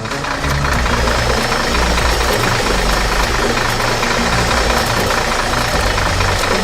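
Engine sound effect of an animated vehicle running steadily, with a dense low rumble that starts abruptly.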